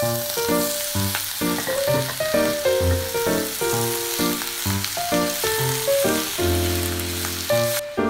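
Sliced chayote sizzling in a saucepan as it is sautéed and stirred, with background music playing over it. The sizzle cuts off suddenly near the end while the music carries on.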